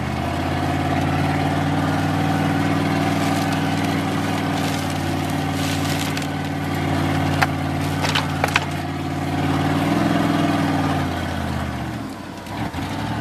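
Plow truck engine running steadily under load, heard from inside the cab. It revs up about ten seconds in, then drops off briefly near the end before picking up again. A few sharp knocks come around the middle.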